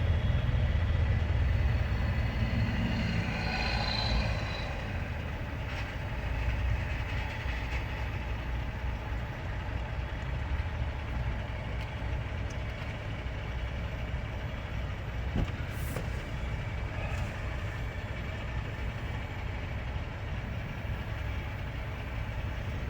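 A vehicle's engine running at a stoplight, heard from inside the cab with the windows open, with traffic around it: a low, steady rumble, a little louder for the first few seconds.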